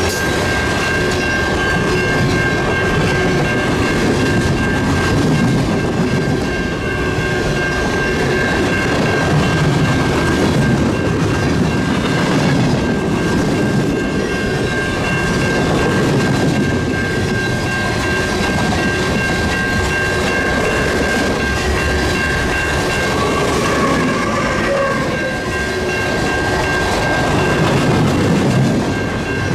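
A Canadian National manifest freight train rolling past: a continuous rumble of its cars on the rails, with faint steady high tones over it.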